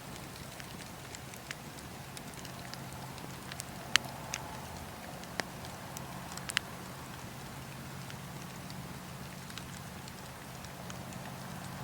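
Wood fire in a fireplace crackling, with scattered sharp pops over a steady soft hiss and low rumble of the flames; the loudest pops come about four seconds in and again after six seconds.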